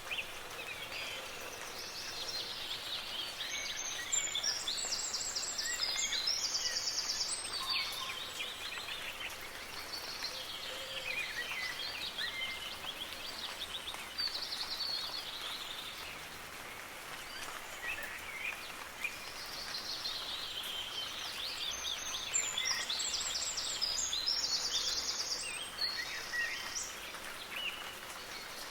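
A chorus of songbirds chirping and singing over the steady hiss of soft rain, with two louder stretches of song about four seconds in and again near the end.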